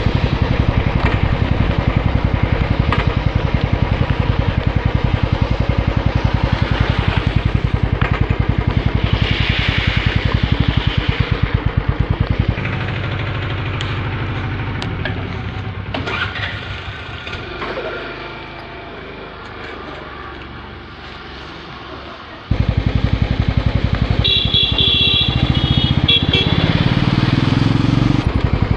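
Motorcycle on the move, its engine running under wind rushing over the microphone. About halfway through the sound drops to a quieter level for roughly ten seconds, then comes back suddenly.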